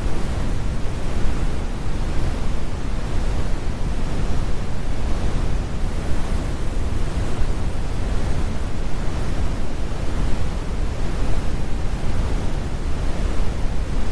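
Computer-generated brown noise: a steady, deep rumbling hiss with its energy in the bass and the highs rolled off.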